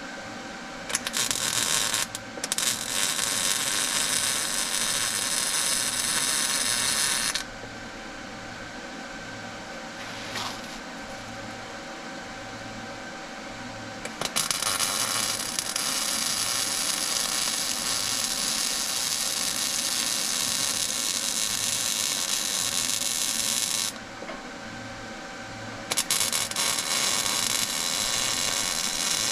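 Arc welding: three long stretches of crackling, hissing arc as weld beads are laid, the first about six seconds, the second about ten, the last starting near the end. A steady low machine hum runs underneath between beads.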